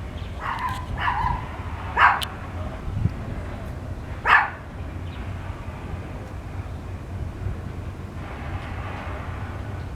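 A dog barks several times, the two loudest barks about two and four seconds in, over the steady low rumble of a passing train.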